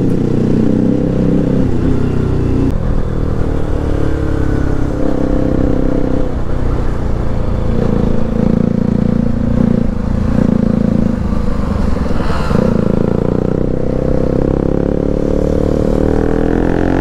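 Bajaj Pulsar RS200's single-cylinder engine heard from on board while riding, its pitch rising and falling with throttle and gear changes, over a steady rush of wind.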